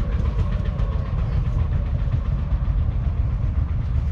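Ford 6600 tractor's 4.2 litre four-cylinder diesel engine running steadily with a rapid, even low knock.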